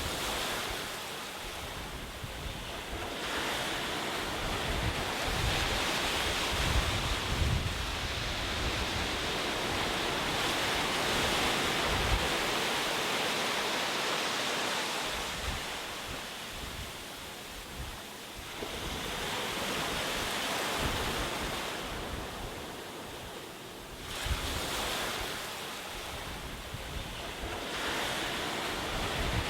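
Ocean waves breaking on a shore, a continuous rushing surf that swells and recedes in slow surges every several seconds.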